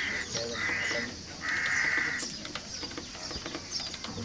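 A crow cawing three times in a row, harsh calls with the last one the longest, with faint chirps of smaller birds behind.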